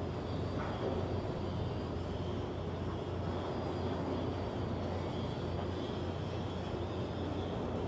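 Ship repair yard machinery running with a steady low hum and a faint, wavering high whine over it.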